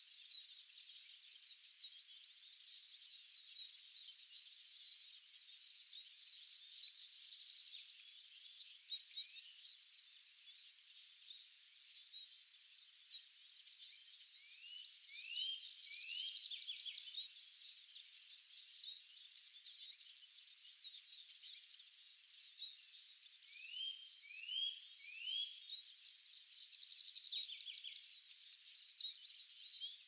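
Several songbirds singing and calling: a steady chorus of high, quick chirps and trills. Twice, a bird gives a run of three quick rising whistles.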